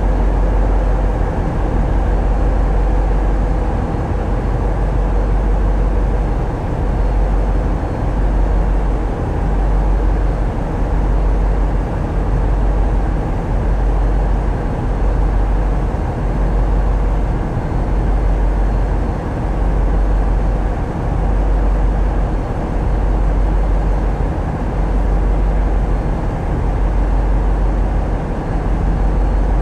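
Tugboat's diesel engines running steadily, heard on board as a heavy, low drone that swells and eases slightly every couple of seconds.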